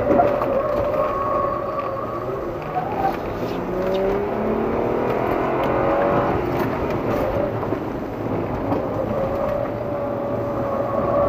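Hyundai Santa Fe's engine heard from inside the car while it laps a time-attack course, its pitch rising as it accelerates in the middle, over steady road and wind noise. A steady high whine sounds at the start and again near the end.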